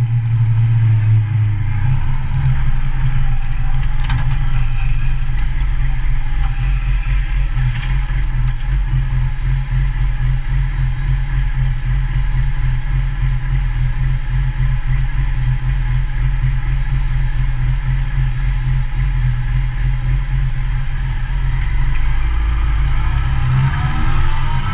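Motorcycle engine running steadily under way, a loud low hum and throb. Near the end its pitch rises as the bike accelerates.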